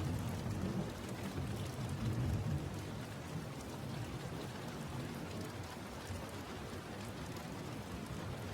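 Steady rain falling, with a low rumble of distant thunder that dies away after about two and a half seconds.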